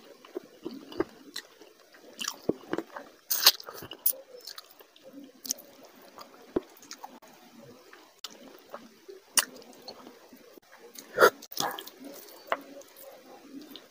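Close-miked wet chewing and lip-smacking of a person eating rice and curry with his hand, with squelching and sharp mouth smacks at irregular intervals.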